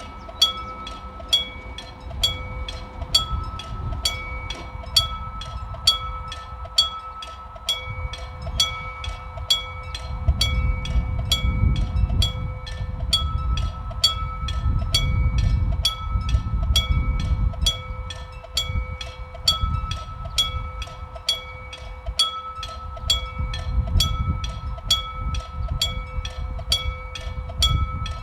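Railway level-crossing warning bell ringing steadily at about two strikes a second. From about eight seconds in, a Saemaeul-ho train passes with a low rumble of wheels on the rails, loudest in the middle and again near the end.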